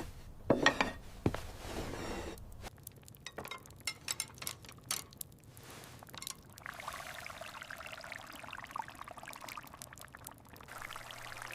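A few knocks and clinks, then liquid pouring steadily for about four seconds.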